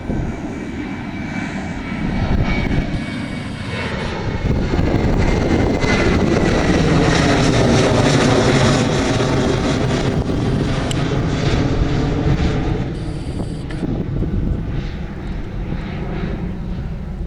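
Jet airliner passing close by. The engine roar swells to a peak about eight seconds in, then fades. A high whine glides slowly downward in pitch as the plane goes past.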